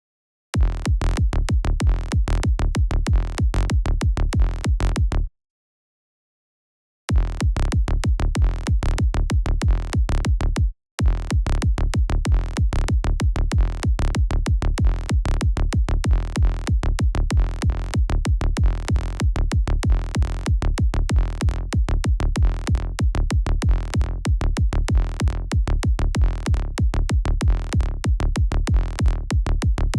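Electronic kick drum and synth bass loop playing back, a steady driving pattern built in Kick 2 and Sylenth. It stops about five seconds in, starts again a couple of seconds later and cuts out for a moment near the middle.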